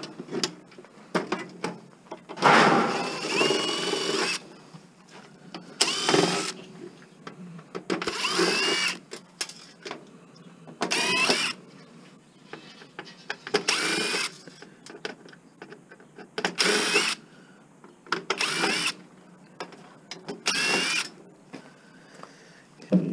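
Power drill driving screws out of a disc player's casing in short bursts, the motor whirring up and down about nine times, one burst every two to three seconds, the first the longest. Small clicks and handling knocks come between the bursts.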